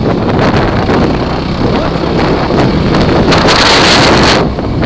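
Wind buffeting the microphone on a moving Kawasaki KFX ATV, over the low rumble of its engine. A louder rush of wind hiss comes about three seconds in and lasts about a second.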